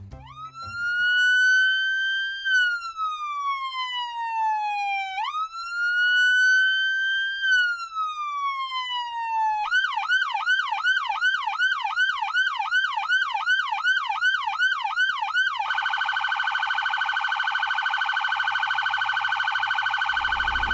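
Electronic police car siren running through its modes: two slow rising and falling wails, then a fast yelp of about three sweeps a second, then from about two-thirds of the way in a steady, very rapid warble.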